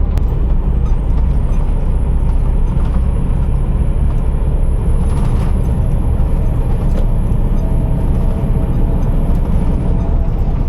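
Scania R480 truck's diesel engine running with a steady low drone. A faint high whine rises about a second in, holds, and falls away near the end.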